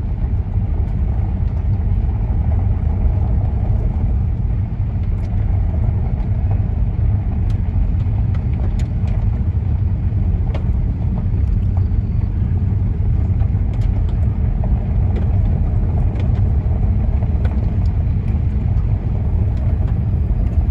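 Car being driven along a road, heard from inside the cabin: a steady low rumble of road and engine noise.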